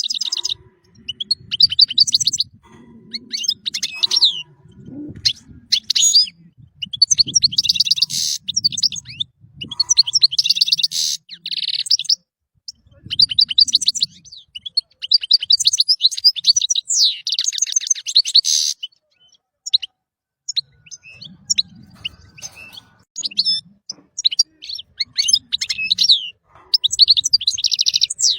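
European goldfinch singing: fast, tinkling phrases of twittering notes and buzzy trills, each a second or two long, repeated with short pauses.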